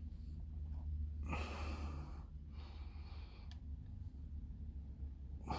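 Faint breathing close to the microphone, two soft breaths about a second apart, over a steady low hum.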